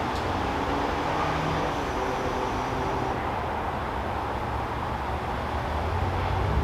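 Steady low rumble of distant road traffic, with faint engine hums rising and fading over it and a brief click just after the start.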